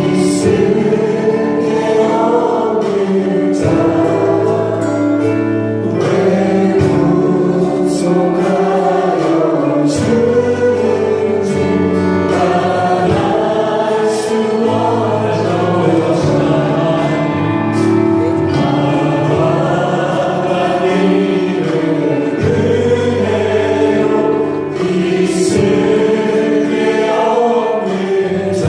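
Church praise team and congregation singing a Korean worship song over full band accompaniment, with a steady beat marked by regular sharp hits.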